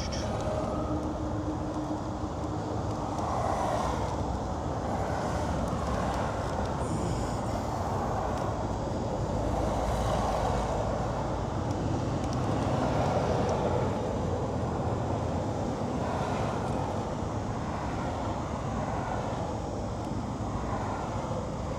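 A car engine running steadily at idle, a continuous low rumble with no distinct events: the Infiniti Q60's VR30DDTT twin-turbo V6.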